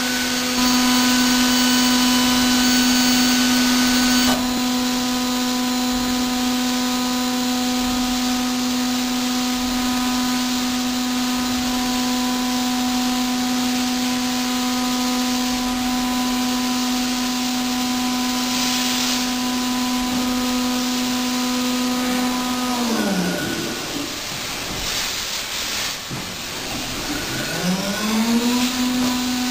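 Milling machine spindle running with a steady whine. About 22 seconds in it winds down to a stop, then spins back up to full speed near the end.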